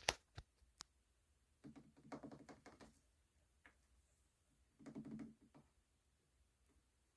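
Near silence with a few faint taps and clicks, and two brief muffled rustling patches.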